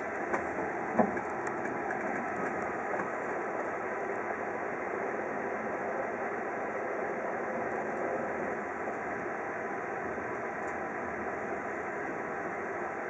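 Steady running noise of a CityNightLine sleeper train, heard from inside the car as it rolls slowly through the station, with one sharp knock about a second in.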